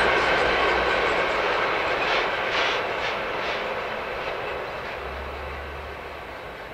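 Freight train of covered wagons rolling away over the rails, its running noise fading steadily as it recedes. A few wheel clacks stand out about two to three seconds in.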